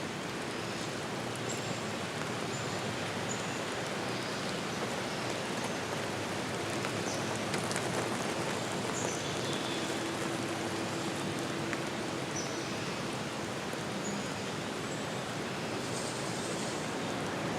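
Steady rushing water noise, even and unbroken, with faint short high chirps scattered through it.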